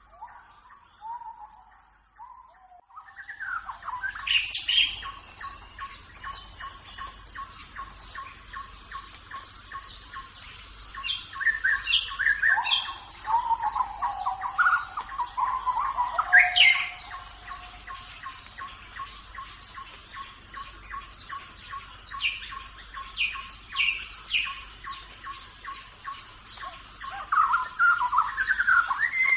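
Tropical rainforest birds calling: scattered chirps, whistles and gliding notes, several at once in places. Under them a steady high drone and a rapid, even pulsing come in about three seconds in and run on.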